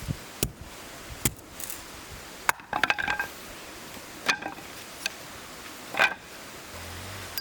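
A few sharp knocks and ringing clinks of hard objects being handled, with a short rattle of clinks about three seconds in.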